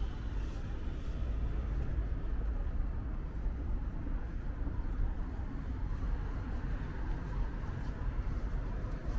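Outdoor city street ambience: a steady low rumble of traffic with no distinct events.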